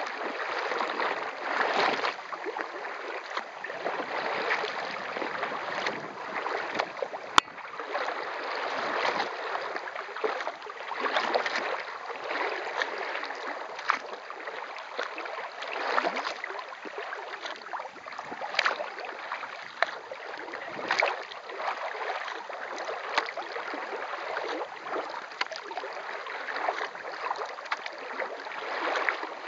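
Kayak paddle strokes splashing through lake water, the splashing swelling and easing every couple of seconds, with one sharp click about seven seconds in.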